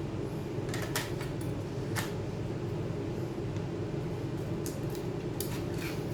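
A few light clicks and taps of small hand tools and parts being handled over a steady low hum: two clicks about a second in, one at two seconds, and a short run of clicks near the end.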